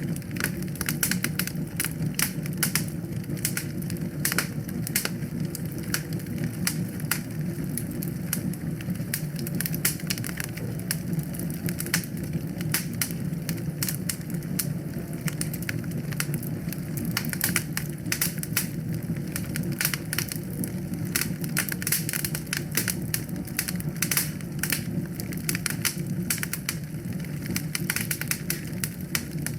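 Fire burning in a fireplace: many irregular crackles and pops, thick and continuous, over a steady low rumble.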